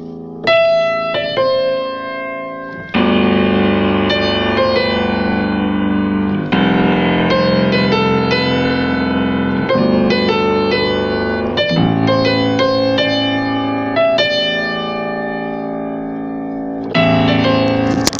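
Electric piano playing chords and a melody. A new chord is struck about every three to four seconds.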